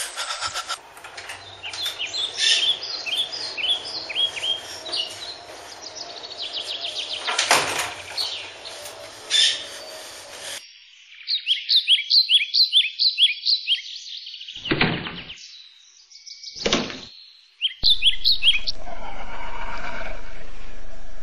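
Birds chirping: rapid runs of short, high chirps that come again and again. A few sudden thuds or whooshes cut in along the way, and a steady hum sets in near the end.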